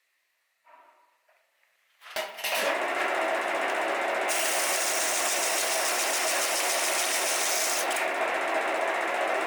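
A small power tool starts about two seconds in and runs steadily with a constant hum, its high hiss dropping away for a few seconds and then returning.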